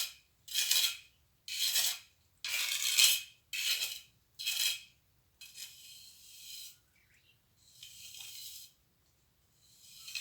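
Steel plastering trowel scraping across cement mortar in repeated strokes, about one a second for the first five seconds, then two softer, longer strokes.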